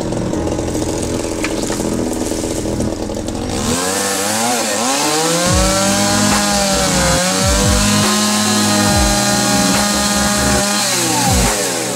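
Small petrol engine running, its speed rising and falling repeatedly.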